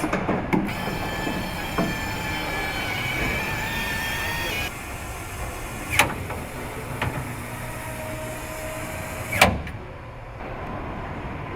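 Car assembly line machinery running: several steady whining tones for the first few seconds over a constant low hum, then two sharp metallic clanks a few seconds apart.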